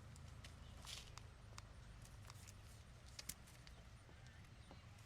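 Near silence: a low steady hum with scattered faint clicks and ticks.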